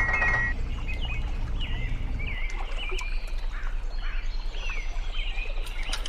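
Birds chirping, short repeated calls a few times a second, over a low steady hum. A music phrase ends about half a second in.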